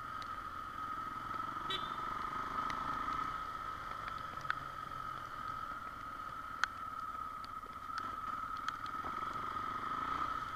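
XR Tornado single-cylinder motorcycle running at a steady pace, with a constant whine and a haze of rushing noise, and scattered sharp ticks throughout.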